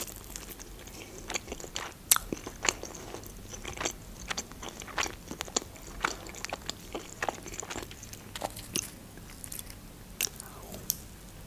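Close-miked chewing and biting of baked pastry: irregular wet mouth clicks and small crisp crunches, denser in the first half.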